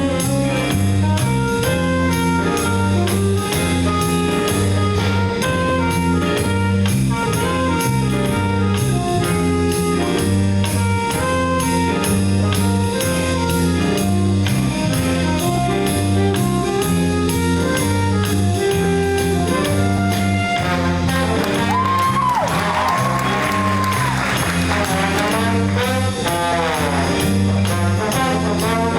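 School jazz ensemble playing, with trumpets and trombones over stepping low notes and a steady beat. About three-quarters of the way through, the brass plays bent notes that scoop up and fall away.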